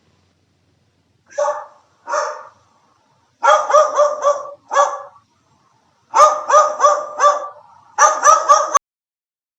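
A dog barking: two single barks, then quick runs of three to four barks with a lone bark between them, about fifteen barks in all.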